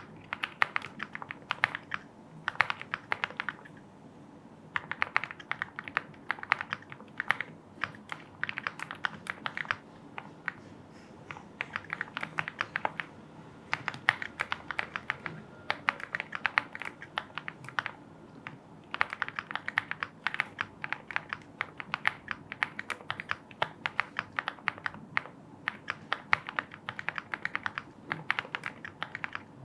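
Typing on a Lucky 65 aluminium-case mechanical keyboard, in runs of quick keystrokes broken by short pauses every few seconds.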